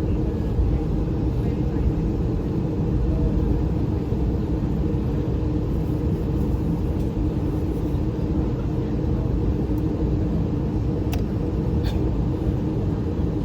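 Steady cabin noise inside an Airbus A320 on the ground after landing: a constant low rumble with a hum, and two short sharp clicks near the end.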